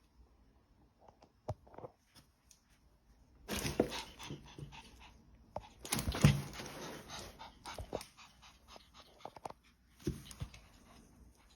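Dog sounds, mostly noisy and breathy, in two louder stretches about three and a half and six seconds in, with scattered short clicks between.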